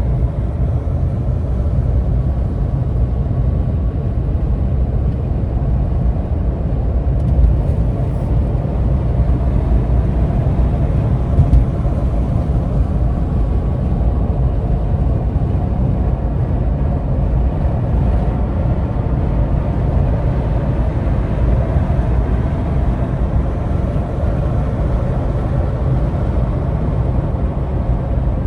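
Steady low rumble of a vehicle's engine and road noise heard from inside the cab during slow driving, with two brief louder knocks about seven and eleven seconds in.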